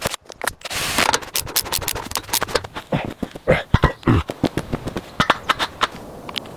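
A dense, irregular run of sharp knocks, taps and scrapes, several a second, with a few heavier knocks near the middle.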